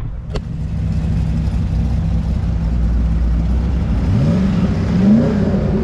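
Car engine running with a steady low drone, then revving about four seconds in, its pitch rising and easing back near the end. A short click sounds just after the start.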